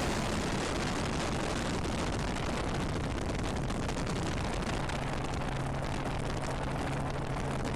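Steady rushing noise of a helicopter in flight, rotor and wind noise on the microphone, with a faint low hum joining about five seconds in.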